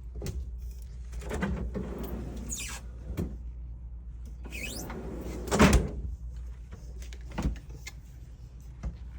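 Refrigerator doors and drawers being opened and shut: a series of knocks, the loudest about five and a half seconds in, and two squeaky sliding sounds, over a steady low hum.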